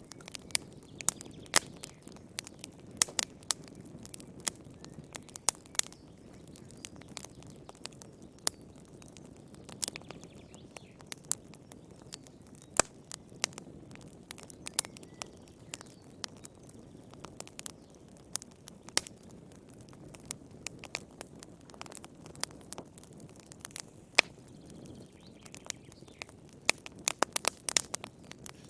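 Wood campfire crackling and popping in irregular sharp snaps over a low, steady rumble of flame, with a quick flurry of pops near the end.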